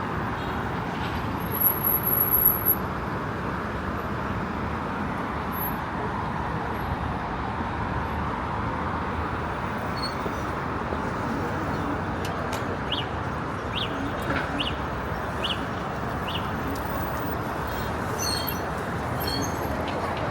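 Steady street traffic noise, with a brief louder noise and a high squeak about two seconds in and small birds chirping in short repeated notes during the second half.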